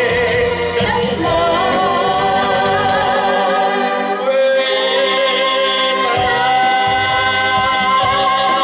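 Singing with musical backing: sustained sung notes over an accompaniment, the bass dropping out for about two seconds midway.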